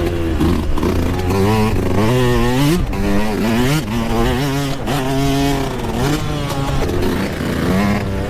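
Yamaha YZ125 two-stroke single-cylinder engine ridden hard on a motocross track, its pitch climbing and dropping repeatedly as the rider works the throttle and shifts, with several quick rises and sudden drops about every second.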